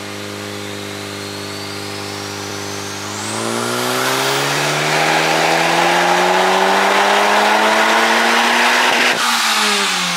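Big-turbo Honda Civic Type R FK8's turbocharged 2.0-litre four-cylinder making a dyno pull: it holds steady for about three seconds, then the revs climb smoothly under full load for about six seconds with a high whistle rising above the engine note. Near the end the throttle closes abruptly and the revs fall away.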